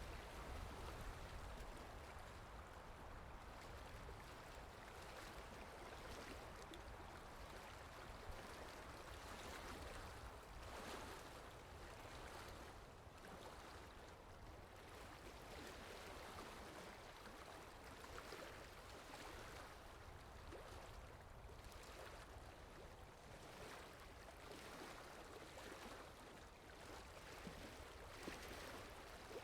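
Steady, faint rushing of flowing water from a river or waterfall, an even hiss with gentle swells.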